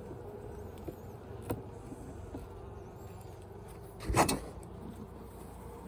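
Honeybees buzzing steadily around an opened hive, with a light click about a second and a half in and a louder knock about four seconds in from hive equipment being handled.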